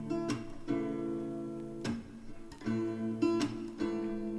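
Background music: strummed acoustic guitar chords between the song's sung lines.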